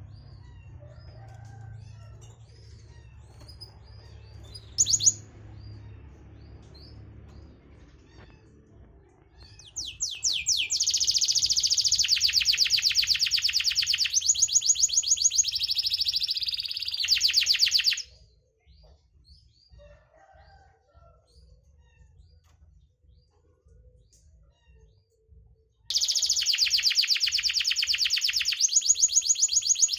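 Domestic canary singing: long, rapid trills in sections of different pitch, in two loud bouts, the first about eight seconds long and the second shorter near the end, with faint chirps between them.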